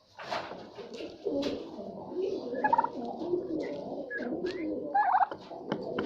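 A flock of domestic turkeys calling: a continuous low, cooing murmur of many birds, with two louder rattling calls standing out, one about halfway through and one near the end.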